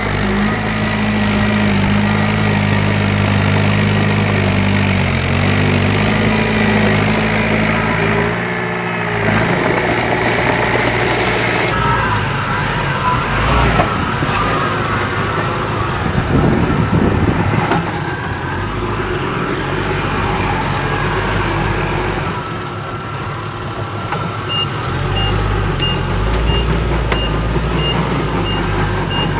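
Heavy diesel construction machinery at work: an engine running steadily at first, then harder and rougher. Near the end a reversing alarm starts beeping about twice a second as a truck backs up.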